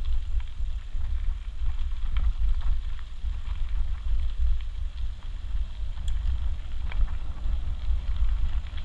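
Wind buffeting an action camera's microphone: a heavy, fluctuating low rumble, with scattered faint clicks over it.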